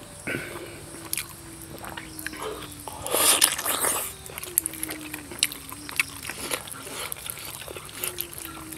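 Close-miked eating of pork on the bone by hand: wet chewing and lip smacks with small clicks, and a louder bite about three seconds in.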